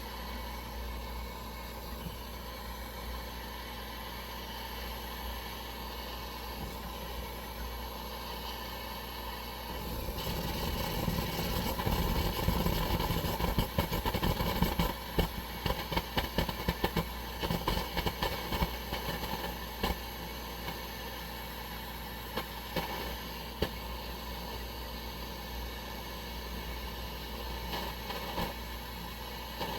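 Pressurized white-gas burner of a Coleman 523 military stove running with a steady hiss. From about ten seconds in, for about ten seconds, it grows louder with irregular crackling pops, then settles back to the steady hiss.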